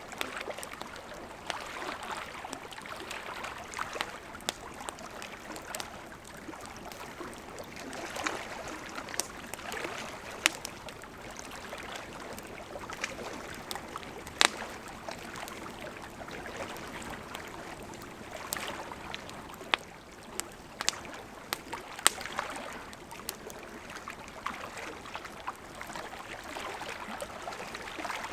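Wood campfire crackling with irregular sharp pops, a few of them loud, over the steady rush of a gently flowing river.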